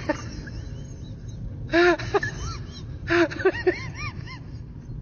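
Short squeaky calls from an animal, each rising and falling in pitch, coming in two clusters over a steady low background rumble.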